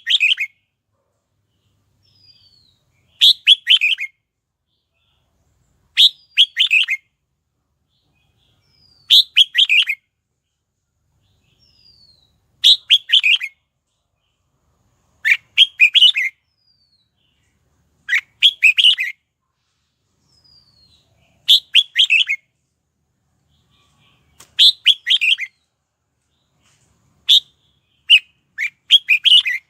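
Red-whiskered bulbul singing: short, loud phrases of a few quick notes, repeated about every three seconds, with a faint short falling whistle in some of the gaps.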